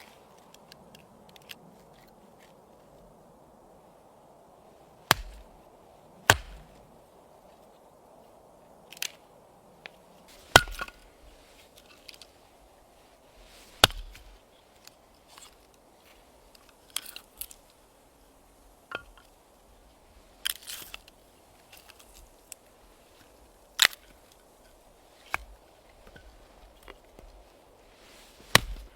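Firewood being chopped: about a dozen sharp, loud strikes at uneven intervals of one to three seconds, over a faint steady hiss.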